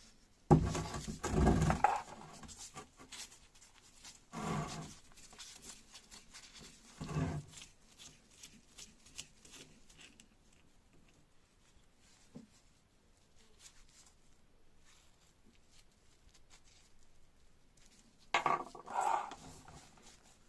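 Handling noises of a hydraulic jack being dismantled: metal parts and tools knocked and scraped in four short bouts, the first and loudest near the start, another near the end, with quiet between.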